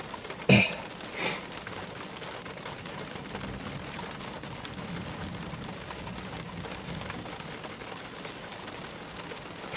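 Steady rain falling during a night thunderstorm. About half a second in there is a sharp, loud crack, and a softer one follows less than a second later. A faint low rumble runs through the middle.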